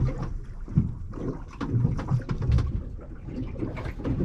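Uneven low rumble of wind and water around a small anchored boat, with a few scattered knocks of handling on board.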